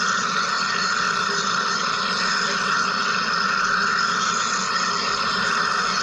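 Wire EDM (wire electrical discharge machine) running: a steady, unchanging machine noise with a constant hum and hiss.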